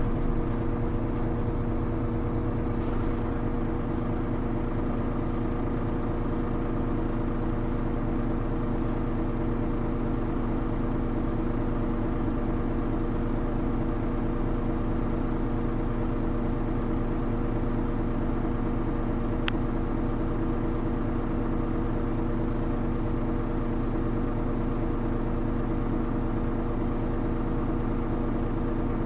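Hino Rainbow HR city bus's diesel engine idling steadily at a constant pitch, heard from inside the bus while it stands still. A single faint tick comes about two-thirds of the way in.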